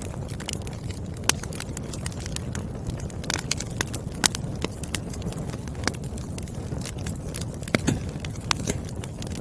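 Burning firewood crackling, with sharp snaps and pops at irregular intervals over a steady low rumble of the flames.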